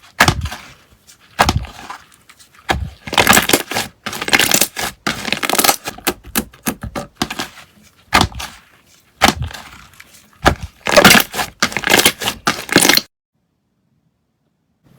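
Slime being squeezed and pressed by hand, giving loud crunchy crackles in rapid bursts that cut off abruptly into silence about two seconds before the end.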